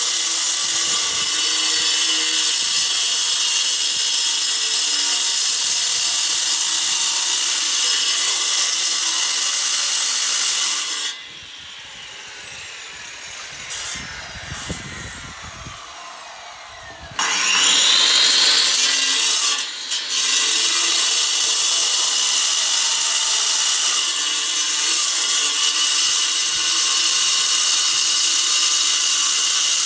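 A handheld electric power tool runs steadily under load. About eleven seconds in it stops and winds down, a few low knocks follow, and near seventeen seconds it starts again with a rising whine and runs on.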